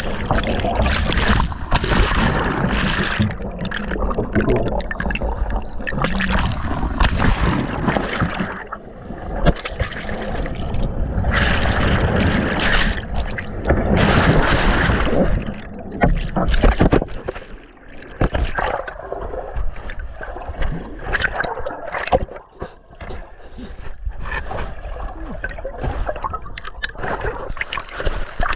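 Whitewater rushing and splashing around a kayak running a rapid, swelling and easing in loudness with the waves.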